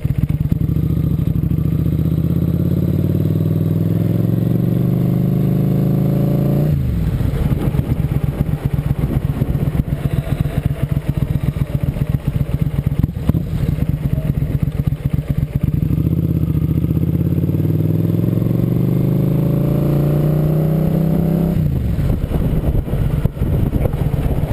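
Motorcycle engine under way, its revs climbing steadily for about seven seconds and then falling away sharply. It holds an even, lower note for several seconds, climbs again for about six seconds, and falls away once more near the end.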